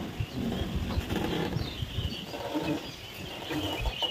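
Small birds chirping now and then, over low rumbling handling noise on the phone's microphone.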